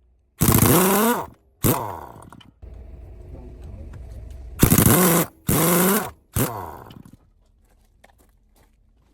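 Power tool, likely an air impact wrench working on the dumper wheel, fired in five short loud bursts. Each burst winds down in pitch as the trigger is let go. A steadier, quieter running noise fills the gap between the second and third bursts.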